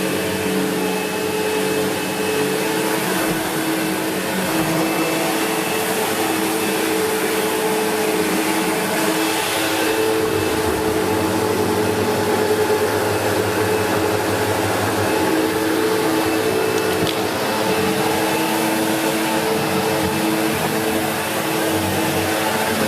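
SEBO X4 Extra upright vacuum cleaner running steadily: a constant motor whine over the rush of air.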